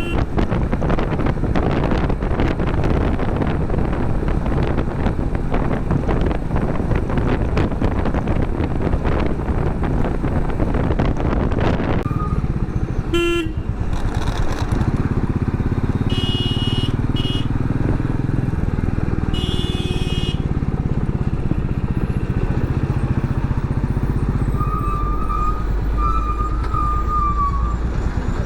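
Riding a motorcycle on a highway: wind rushing over the microphone with the engine underneath for the first half. Then it turns calmer, engine and traffic only, with several short vehicle horn honks.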